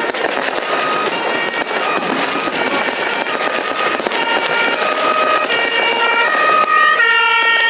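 Many fireworks going off at once: a dense, unbroken run of bangs and crackles. Music with long held notes plays over them.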